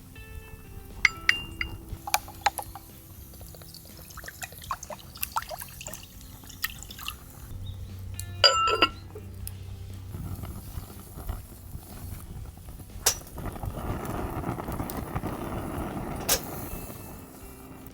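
Glass and dishware clinking a few times, with a louder clink about eight seconds in, then liquid pouring steadily for several seconds near the end. Faint background music underneath.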